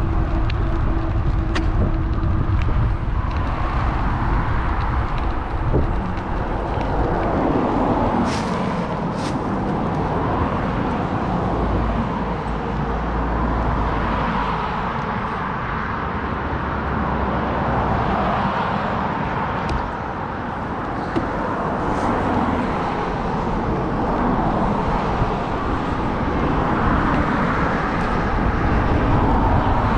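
Road traffic passing close by, a steady rush of car noise that swells and fades as vehicles go past, heard from a moving bicycle, with a couple of sharp clicks about eight seconds in.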